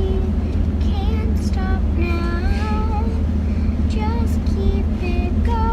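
A girl or woman singing a melody in held, gliding notes over a steady low engine drone.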